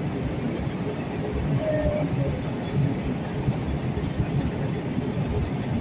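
Airliner cabin noise: a steady low rumble of engines and airframe, with faint irregular knocks, heard from a passenger seat while the plane descends or rolls on the ground near landing.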